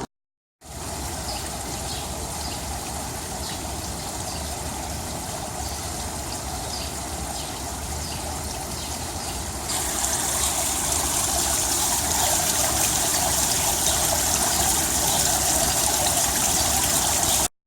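Water running and trickling steadily, with faint scattered drips. It gets louder about ten seconds in.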